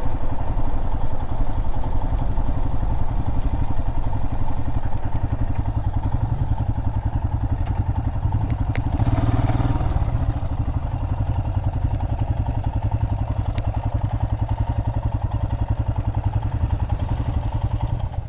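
Adventure motorcycle engine running steadily while riding, a fast even pulsing with road noise, swelling briefly about halfway through, with a couple of sharp clicks.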